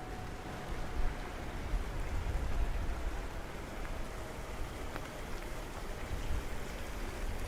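Steady rain falling, with scattered drops ticking close by over a low rumble. A faint steady tone hums in the background during the first half.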